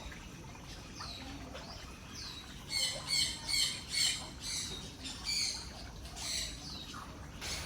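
Small cage birds chirping and squawking: a couple of short falling chirps, then a quick run of harsh, high calls about three seconds in, followed by single calls about a second apart.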